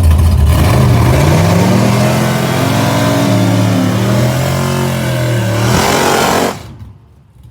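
Police car accelerating hard down a drag strip, its engine rising in pitch and dropping back at each gear change. The engine sound falls away sharply about six and a half seconds in.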